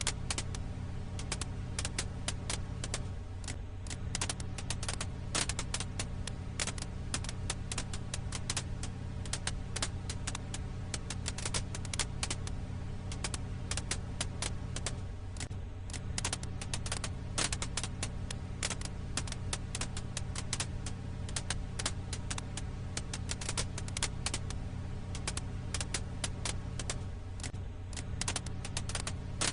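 Firewood crackling in a campfire: dense, irregular pops and snaps over a steady low hum.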